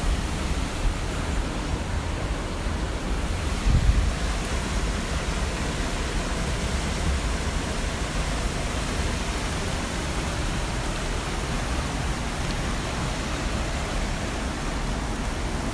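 Waterfall rushing steadily, an even wash of falling water, with a brief low bump about four seconds in.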